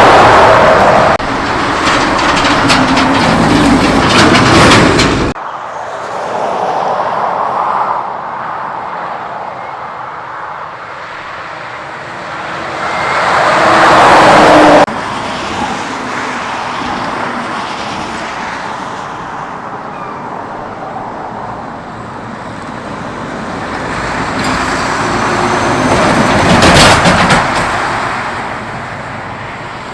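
Mack trucks passing on the road, engine and tyre noise, one after another: each pass swells and fades. The sound cuts off abruptly about five seconds in and again about fifteen seconds in, where one pass gives way to the next.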